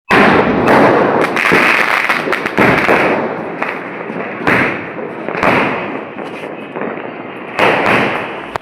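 Sky-shot aerial fireworks going off: a run of bangs and pops over continuous crackling, with stronger bursts every second or two.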